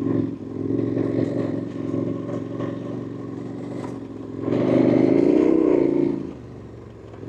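KTM 1290 Super Adventure's V-twin engine running under way, with light clattering, opening up louder about four and a half seconds in for a second and a half with rising pitch before easing off again.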